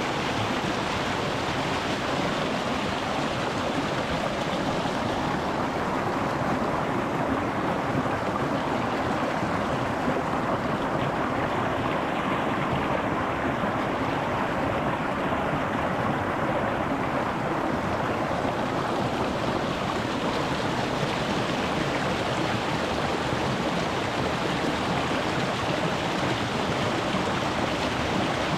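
Shallow rocky mountain stream rushing over stones, a steady wash of water noise with no breaks. Its hiss softens somewhat in the middle, then brightens again near the end.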